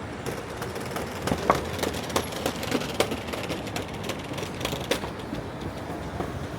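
Steady vehicle noise with a run of irregular rattling knocks for a few seconds.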